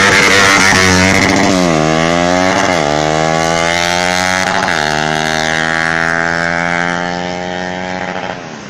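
Drag-racing motorcycle engine accelerating hard through the gears: its pitch climbs and then drops sharply at each shift, about two and three seconds in and again near five seconds, before it fades out near the end.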